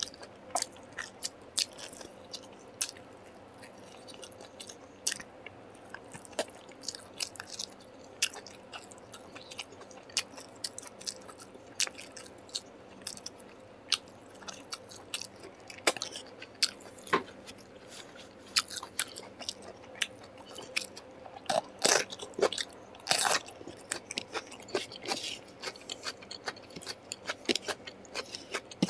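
A person eating, close to the microphone: irregular chewing and biting, with many short sharp clicks and crunches and a louder cluster about 22 seconds in.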